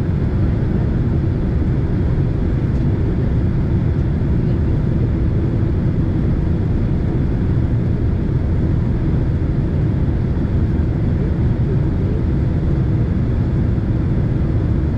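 Steady low rumble of a Boeing 767 in flight, heard inside the passenger cabin: engine and airflow noise, unchanging throughout.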